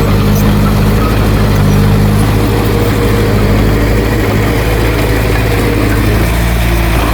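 Diesel engine of a piece of heavy earthmoving equipment running steadily, a loud, even low hum.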